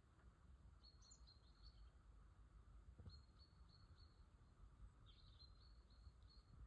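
Near silence: faint outdoor ambience with a small bird's thin, high chirps in short runs about every two seconds, over a low rumble.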